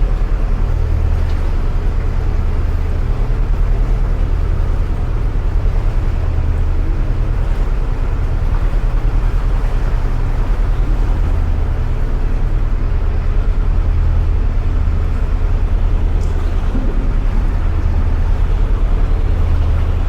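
Narrowboat engine running steadily under way inside a canal tunnel: a loud, even, low drone.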